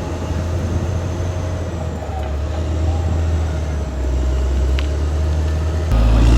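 Caterpillar D6R XL bulldozer's diesel engine running with a heavy, steady low drone and a faint steady whine above it; the engine gets suddenly louder near the end.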